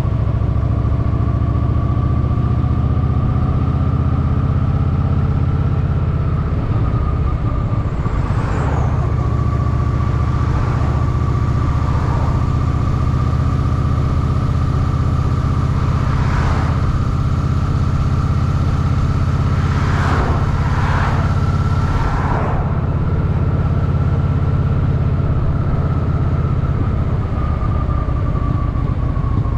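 Honda Shadow VT750's V-twin engine running steadily at low revs in city traffic, with a faint steady whine alongside and several brief swells of noise through the middle.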